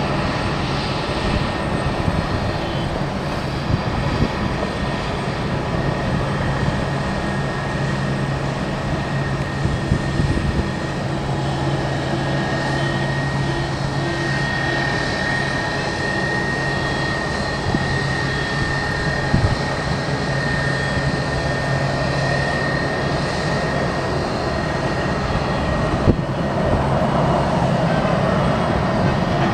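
Airbus A320-family airliner's jet engines running steadily, with a thin high whine that stands out most in the middle and a steady low hum.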